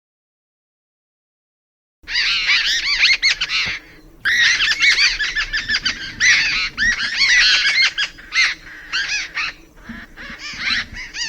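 A flock of birds chattering, with many rapid, overlapping high calls. It starts about two seconds in and goes on with a few short breaks.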